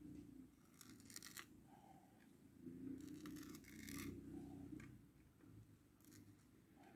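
Faint scratching in three short spells, over a low steady hum.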